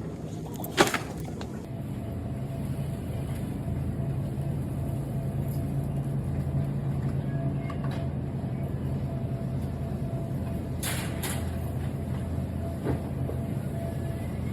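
A vehicle running with a steady low drone, and a sharp click about a second in.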